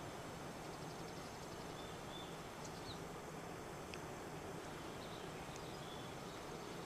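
Quiet open-air ambience: a steady hiss with a few faint, short, high bird chirps and calls scattered through it.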